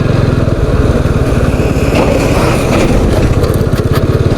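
Motorcycle engine running steadily while being ridden slowly, its exhaust beat coming through as a fast, even pulse.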